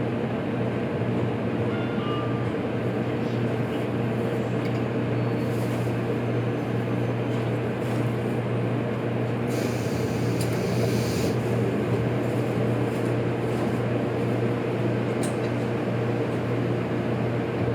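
Steady hum and mechanical noise inside a JR Kyushu 783 series electric train, with a short burst of hiss about ten seconds in.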